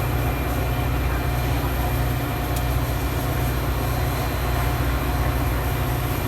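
Metra commuter train's diesel locomotive running steadily: an even, deep rumble with a faint steady hum above it.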